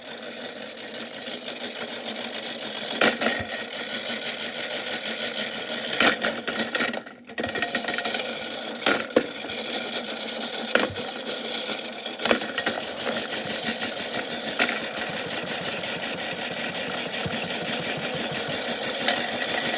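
Washing machine running with a big rock tumbling in the drum, knocking and clattering at irregular intervals over a steady mechanical hum; the sound briefly drops out about seven seconds in.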